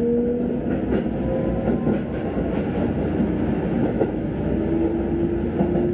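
Sanyo Electric Railway train running, heard from inside the carriage: a steady rumble of wheels on track with a humming tone that rises slowly in pitch in the second half, and a few light rail clacks.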